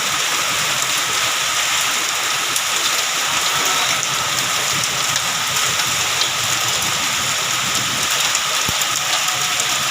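A heavy downpour of rain mixed with hail, falling as a steady, dense hiss with faint scattered ticks of hailstones striking surfaces.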